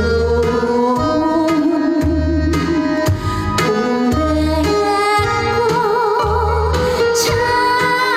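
Trot song: a woman singing with wide vibrato over instrumental accompaniment with a pulsing bass beat.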